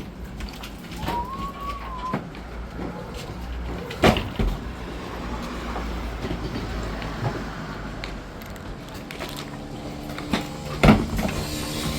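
Vehicle engine running with a steady low rumble, and two sharp knocks, one about four seconds in and a louder one near the end. A short rising-and-falling whistle sounds in the first two seconds.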